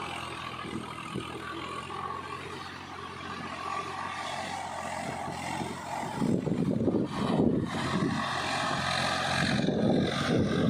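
Swaraj 744 FE tractor's diesel engine running steadily under load while its iron cage wheels work through the mud of a puddled paddy field. From about six seconds in, a louder, rough rumbling noise joins the engine sound.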